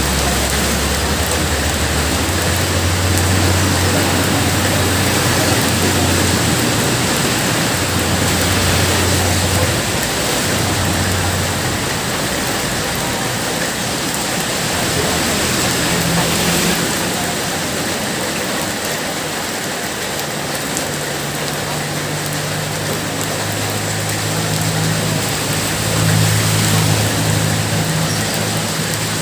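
Heavy rain falling steadily, an even hiss of downpour. A low hum comes and goes underneath it.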